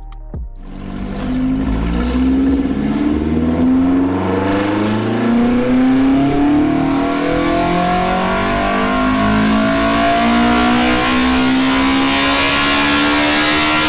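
Toyota 4A-GE four-cylinder on individual throttle bodies, making a wide-open-throttle chassis dyno pull with its intake cam retarded 10 degrees. The engine note climbs steadily in pitch from about half a second in.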